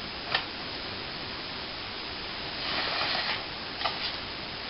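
Steady background hiss, with one light click near the start, a brief soft rush of noise a little past halfway and a couple of light taps soon after.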